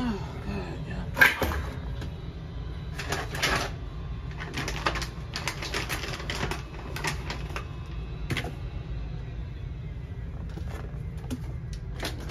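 A series of light clicks and knocks, spaced a second or two apart, over a steady low hum: household objects being handled.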